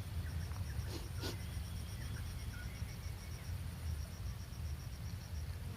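Insect, likely a cricket, chirping in a steady high pulsing rhythm, about six pulses a second, over a low rumble.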